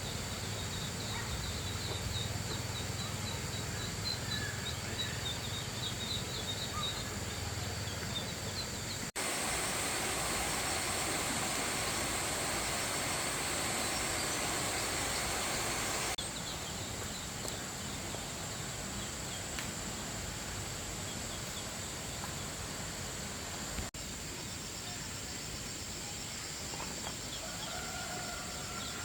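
Farmyard ambience: a steady high insect drone with faint chirping, and poultry calling a few times near the end. In the middle a louder, even rushing noise runs for several seconds, then stops abruptly.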